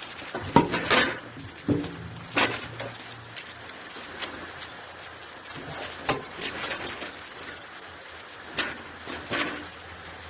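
Irregular sharp clinks and knocks of tools and metal parts being handled while a Lister SR3 engine is taken apart, about ten in all, some in quick pairs.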